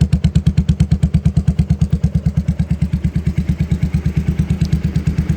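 Royal Enfield Classic 350's single-cylinder engine idling through a genuine Royal Enfield accessory exhaust, a steady, even beat of about nine exhaust pulses a second.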